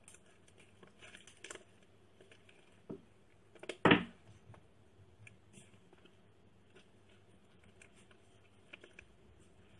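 Scattered small clicks and handling noises, with one short, louder knock about four seconds in.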